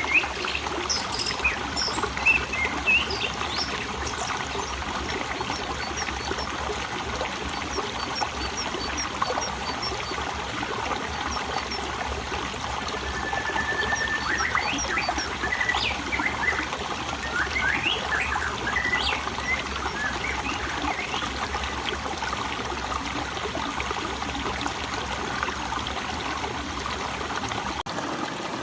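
Steady trickling flow of water, with small birds chirping over it: a quick run of high repeated notes about a third of the way in, and a busier cluster of chirps around the middle.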